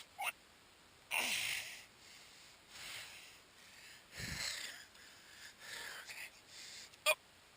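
A man breathing hard in uneven puffs and gasps, winded from the effort of hauling up a heavy catfish.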